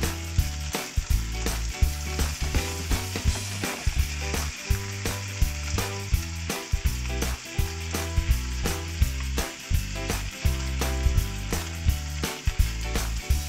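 Chicken wings sizzling in a frying pan over a gas flame, with wooden chopsticks clicking and scraping against the pan as the wings are turned.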